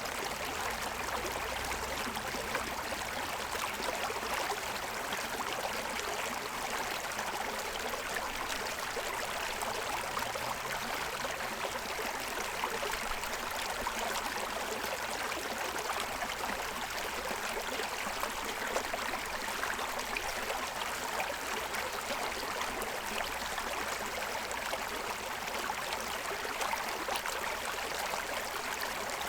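Shallow forest stream running over the stones of its bed: a steady rush of water with fine splashing and gurgling.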